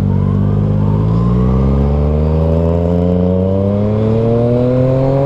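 2019 Yamaha MT-09's three-cylinder engine through an Arrow Thunder slip-on exhaust, accelerating steadily with its pitch rising slowly and evenly.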